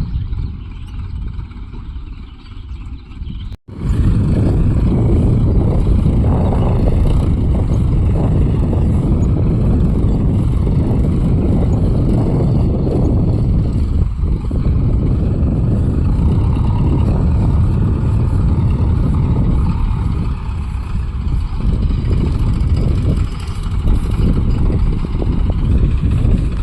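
Tractor engine running with a loud, steady low rumble. The sound drops out for an instant about three and a half seconds in, at a cut in the recording, and comes back louder.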